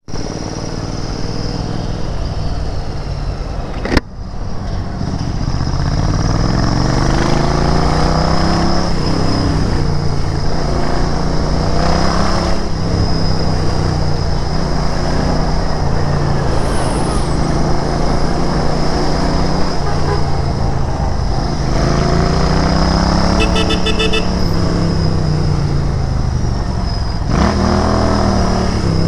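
Royal Enfield Interceptor 650's parallel-twin engine running as the motorcycle is ridden in traffic, its revs rising and falling through gear changes several times. A sharp knock about four seconds in, and a short run of beeps about three-quarters of the way through.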